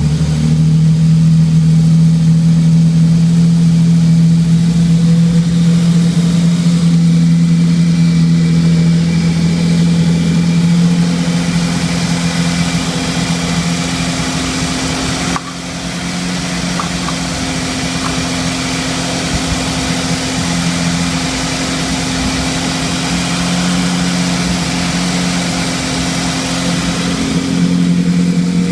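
1985 OMC 3.8-litre V6 stern drive engine running steadily at raised revs, with no knocks, rattles or misses. About halfway through the level drops suddenly and it runs on a little quieter, picking up again near the end.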